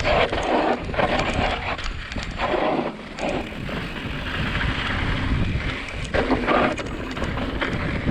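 Wind buffeting a mountain biker's camera microphone in uneven gusts, over a steady low rumble of tyres rolling on a dirt trail.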